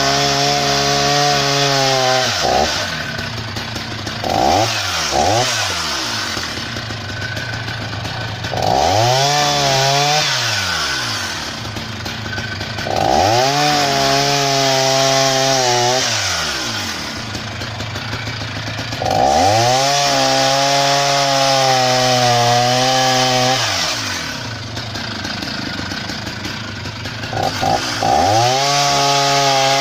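Husqvarna 480 CD two-stroke chainsaw, freshly rebuilt with a new piston and cylinder and running in on its first tank. It is revved to full throttle about five times, held for a few seconds each time with the pitch sagging and wavering as if under load in a cut, and drops back to idle in between. Two quick blips come a few seconds in.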